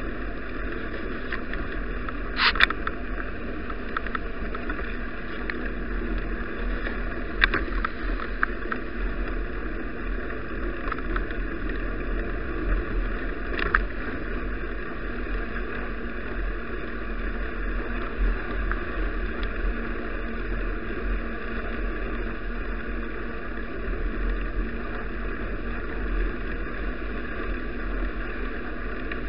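Steady rumble and hiss of a bicycle ride, wind and road noise muffled through an action camera's housing, with a few sharp clicks or knocks, the loudest about two and a half seconds in.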